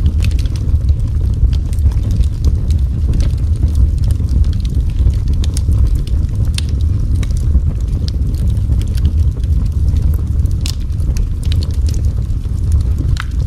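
Wood fire burning in a fireplace: a steady low rumble with frequent scattered crackles and pops.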